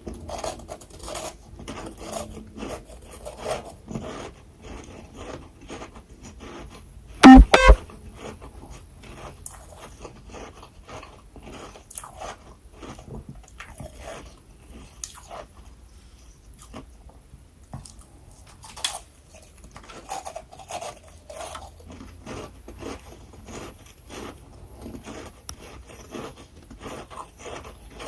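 Close-miked crunching and chewing of freezer frost ice, in a quick irregular run of crisp bites. About seven seconds in, two very loud hits stand out above the rest.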